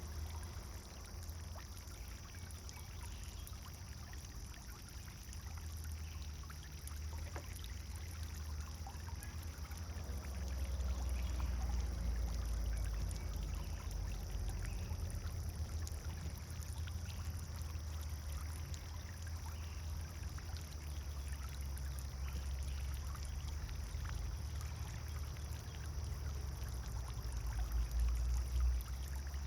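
Pond fountain's water pouring and splashing steadily, over a low rumble that grows a little louder about ten seconds in.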